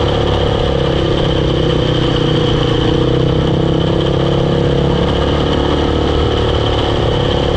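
Triton Baja 400R quad running steadily with a steady high whine over the engine sound. The whine comes from the gearbox or variator (CVT), and a worn ball bearing there is the cause.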